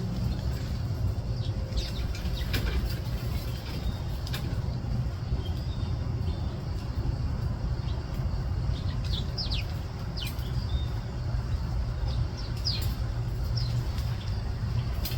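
Small birds giving short, sharp chirps, scattered and most frequent near the end, over a steady low rumble.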